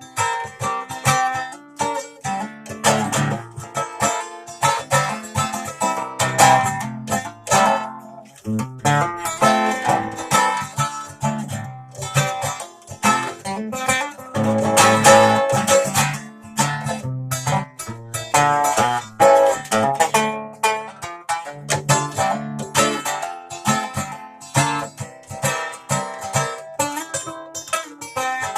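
Acoustic plucked string instrument played solo, a steady run of quickly picked notes.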